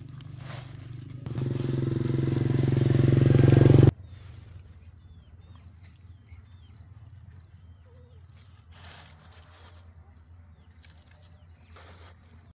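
A small engine running and growing steadily louder, cut off abruptly about four seconds in. After that a faint low hum remains, with a few short bird chirps.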